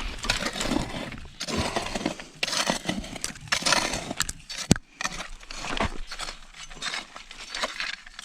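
Scraping and crunching of digging in stony ground, with irregular gritty scrapes and a sharp knock about four and a half seconds in, while unearthing a metal detector's target.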